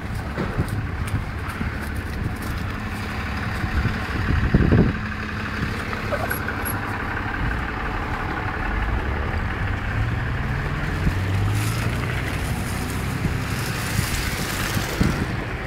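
A motor vehicle's engine running with a low steady hum, its pitch rising about ten seconds in, over a steady noisy background, with a single knock about five seconds in.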